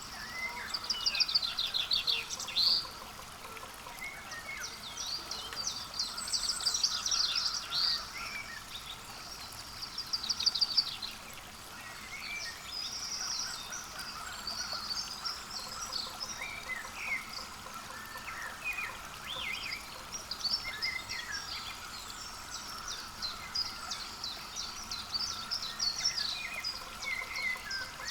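Several songbirds singing and calling, with rapid high trills and short chirps overlapping, loudest in runs during the first eleven seconds.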